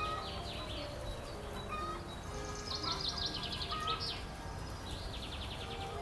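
Birds singing rapid chirping trills, once in the middle and again near the end, with a few short whistled notes, over soft background music and a low rumble.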